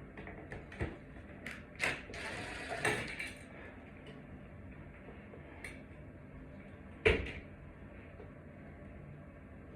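Small parts and tools being handled: a few light clicks, a rustling scrape about two seconds in, and one sharp knock about seven seconds in.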